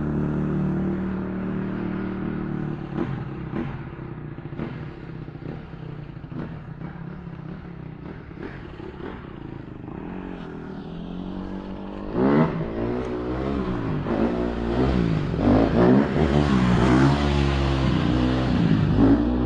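Honda CRF150 dirt bike's single-cylinder four-stroke engine idling with scattered clicks, then revved up and down repeatedly in quick blips from about two-thirds of the way in.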